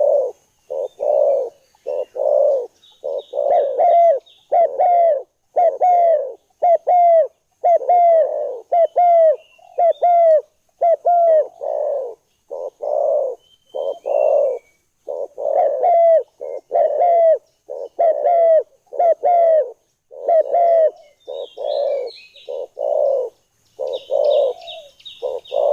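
Spotted dove (tekukur) cooing: a long unbroken run of short coo notes, close to two a second. Fainter high chirps from small birds sound behind it, more of them near the end.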